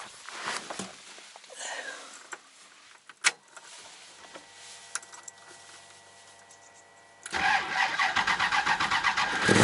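Cold start of a Ford Windsor V8 with Edelbrock Pro-Flo 4 fuel injection, at about −8 °C. A few clicks and a faint steady hum as the key is turned on, then the starter cranks evenly for about two seconds and the engine catches near the end, starting without trouble.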